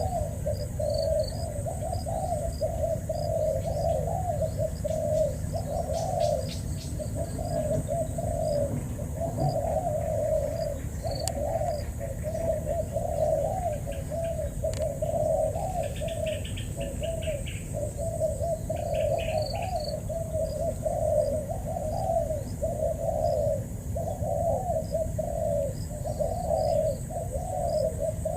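Spotted doves cooing over and over, about one coo phrase each second, with faint high chirps behind.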